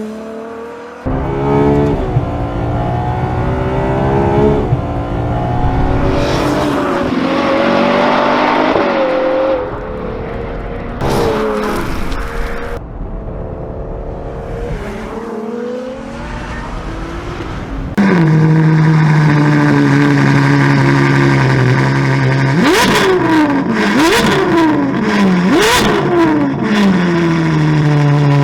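Ferrari 812 GTS's 6.5-litre naturally aspirated V12 through a Novitec sports exhaust. For most of the first two-thirds it accelerates, its note rising and falling as it climbs through the gears. In the last third it holds a steady, louder note, is blipped three times in quick succession with sharp rises and falls in pitch, then settles back.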